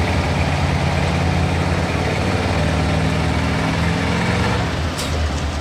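Stock pickup truck engine running loud and steady under load, easing off a little after four and a half seconds, with a sharp click near the end.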